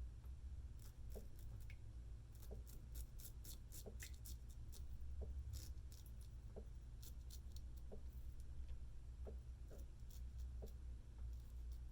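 Straight razor with a Feather Pro Guard blade scraping stubble off lathered skin in short strokes: faint, crisp scratches in quick runs, busiest a few seconds in and again past the middle, over a low steady hum.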